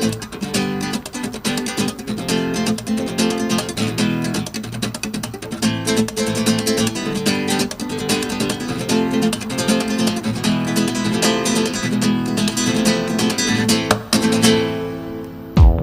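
Music of a strummed acoustic guitar. Near the end it fades and a deep electronic bass beat cuts in.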